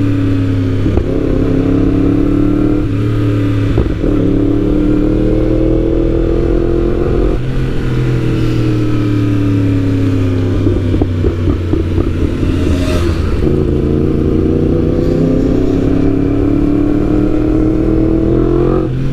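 Superbike engines revving hard in repeated long pulls, the pitch climbing and dropping back several times, with a few sharp exhaust pops. The pops come from flames out of a de-catted stock exhaust.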